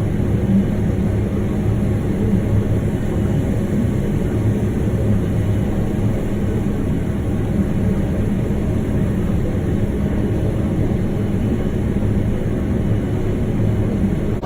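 Tractor engine running steadily while pulling a grain cart, a continuous low hum.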